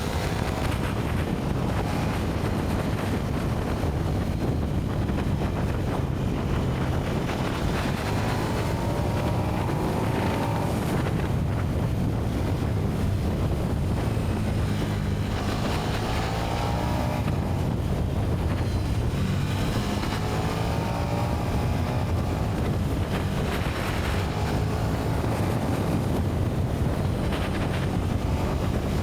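KTM 1290 Super Duke R's V-twin engine on its stock exhaust running at road speed, rising in pitch several times as it pulls up through the revs. Wind noise on the microphone runs steadily underneath.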